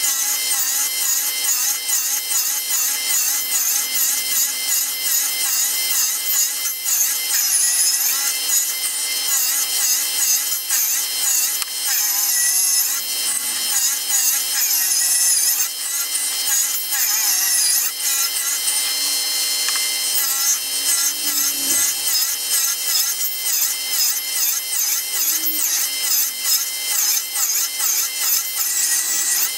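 Homemade table saw, with its blade on a motor-driven spindle, running and ripping through a piece of wood. There is a steady whine that wavers slightly as the blade takes the load, along with the rasp of the cut.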